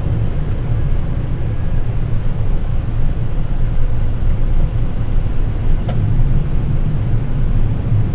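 Steady low rumble of airflow and engine noise in a Boeing 787 cockpit on approach, with the landing gear down and flaps at 20. A faint click about six seconds in.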